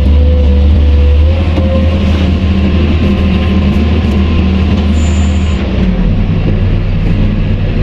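Diesel engine of heavy construction machinery running under load with a steady deep rumble. Its note drops about a second in and shifts again near six seconds.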